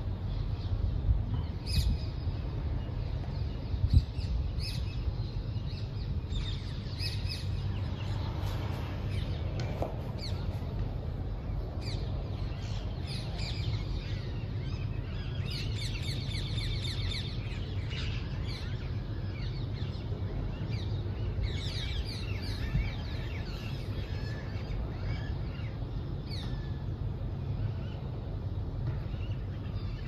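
Small birds chirping and twittering in short scattered calls, with a rapid trill about halfway through, over a steady low rumble. Two short knocks sound in the first few seconds.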